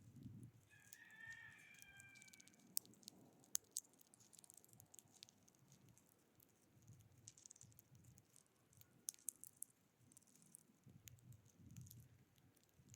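Faint wild bird call: one wavering note of about a second and a half, starting about a second in. Scattered faint sharp clicks and taps follow.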